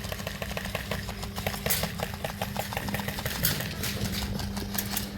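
Airsoft guns firing rapid bursts: fast runs of sharp mechanical clicks, evenly spaced at first and then in denser overlapping clusters.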